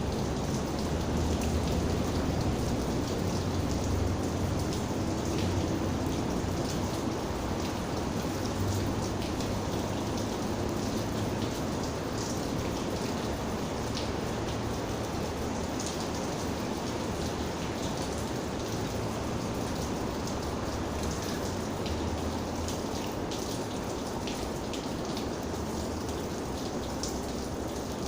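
Steady rain falling, with many individual raindrops ticking sharply against a surface over an even hiss and a low rumble.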